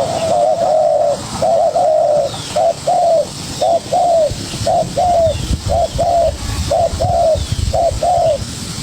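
Spotted doves cooing in a steady run of short, arched coos in pairs, territorial calling in a contest between a young wild dove and a decoy dove. Faint higher chirps of small birds and a low rumble sit underneath in the second half.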